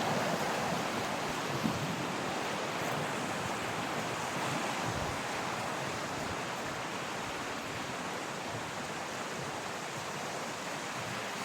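River water rushing steadily, a continuous even hiss that eases off slightly over the seconds.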